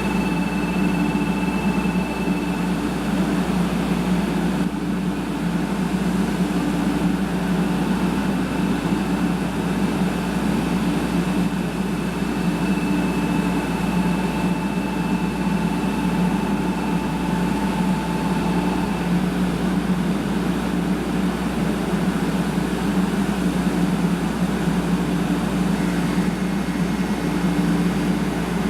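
Steady hum of a 500 Series Shinkansen train standing at the platform, its onboard equipment running, with a faint steady high tone that fades in and out. The pitch does not rise, so the traction inverter is not yet accelerating the train.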